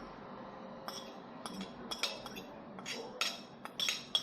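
Light clinks and taps of a plate and tableware while eating, a string of sharp clicks that starts about a second in and grows busier and louder near the end.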